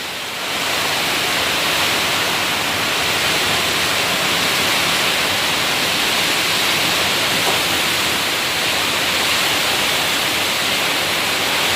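Heavy storm rain pouring down, a loud, steady rushing hiss that swells slightly about half a second in.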